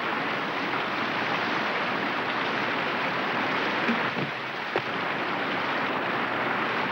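Steady rushing of river rapids, an even wash of white-water noise, with two short knocks a little past the middle.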